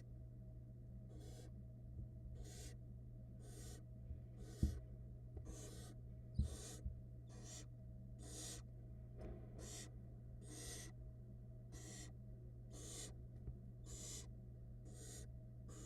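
Barn owl nestlings giving rasping, hissing food-begging calls, a little over one a second, over a steady low hum. Two dull thumps come near the middle.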